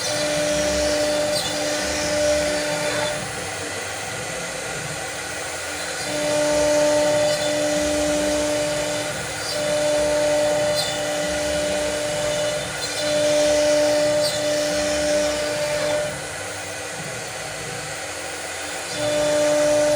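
CNC machine running a cutting job: a steady pitched hum comes and goes in runs of a few seconds each, with gaps of about three seconds between, over a constant hiss of motor and cutting noise.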